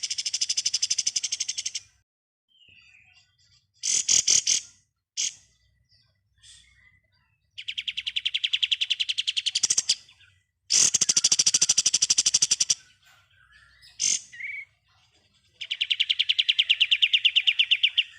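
Kapas tembak (a triller) singing its rapid machine-gun trill: four long trills of about two seconds each, made of fast, evenly repeated high notes, with a few short bursts and chips between them.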